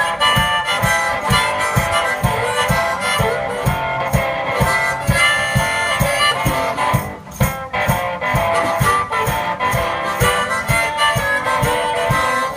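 One-man band playing an instrumental blues passage: harmonica leading over strummed guitar, with a steady low drum beat, dropping out briefly about halfway through.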